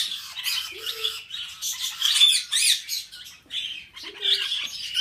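Many small birds chirping and twittering at once, a dense overlapping chatter of high calls, with a short lower call about a second in and again after about four seconds.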